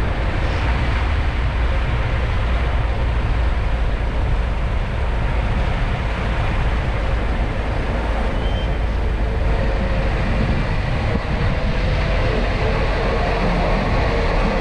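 A vehicle running along the road: a steady rumble of engine and road noise with a faint engine tone that grows a little stronger near the end.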